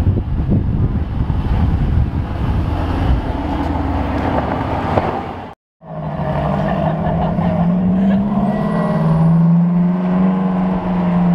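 Mercedes-AMG GT R Roadster's twin-turbo V8 engine rumbling as the car drives past. After a brief cut, a Ferrari engine drones at a steady pitch as the car pulls away, rising slightly partway through.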